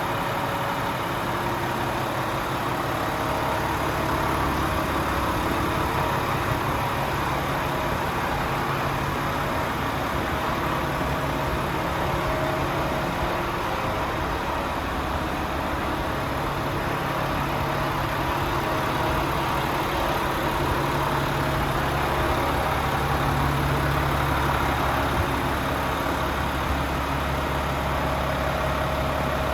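Volvo FM 450's 13-litre six-cylinder diesel engine idling steadily.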